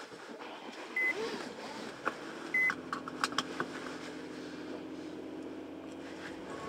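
A car being started: two short electronic beeps, then the engine catches about two and a half seconds in and settles into a steady idle, with a few clicks.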